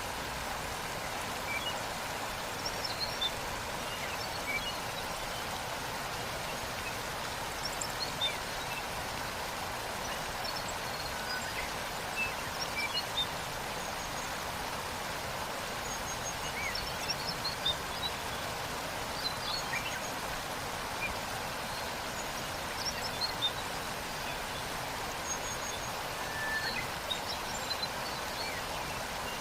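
Waterfall rushing steadily, with frequent short bird chirps and whistles scattered over it.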